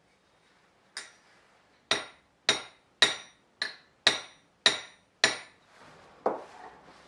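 Small hammer tapping a Japanese plane (kanna) to set the blade: eight sharp, ringing metallic taps about half a second apart, then one duller knock near the end.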